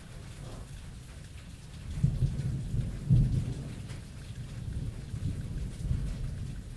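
Thunderstorm: steady rain hiss under rolling thunder, with the loudest rumbles about two and three seconds in and a smaller swell near the end.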